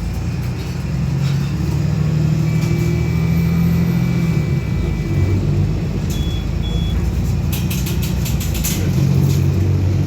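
City bus engine with a holed exhaust, running under load as a loud low rumble that eases about five seconds in and builds again near the end. Two short high beeps sound about six seconds in, and there is a spell of rattling clicks after them.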